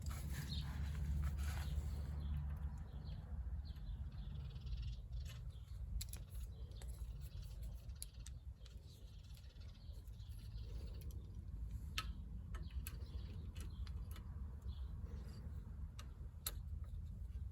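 Scattered sharp clicks and taps of bicycle parts and tools being handled during reassembly, over a steady low rumble, with faint birdsong in the background.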